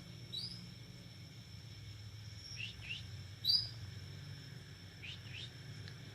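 Bornean white-rumped shama (murai batu) singing. Its phrase is a sharp upward-flicking note held as a long high whistle, then two quick falling notes, and it comes twice. A steady low hum runs underneath.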